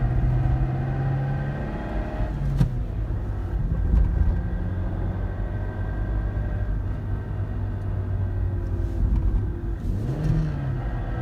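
Suzuki Swift's 1.3-litre four-cylinder engine pulling the car away and accelerating, heard from inside the cabin with a steady low road rumble; the engine note changes pitch about two seconds in and again near the end. The car is being driven to catch a rattle that the mechanic suspects comes from a bearing in the manual gearbox.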